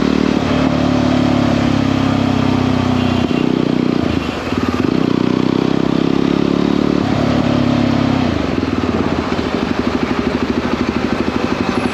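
Jawa 42 motorcycle's single-cylinder engine running while riding. Its pitch shifts about three seconds in, with a brief drop in level near four seconds. From about eight seconds in it settles into a slower, evenly pulsing beat.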